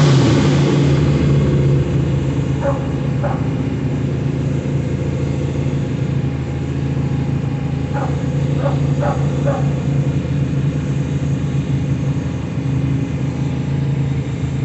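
Several motorcycle engines idling together, a rev dropping back to idle at the very start. A few short high-pitched sounds rise over the engines about 3 seconds in and again around 8 to 9 seconds in.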